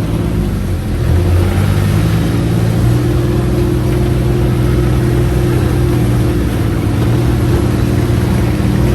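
UTV engine running steadily while the vehicle is driven, its pitch stepping up a little about a second in.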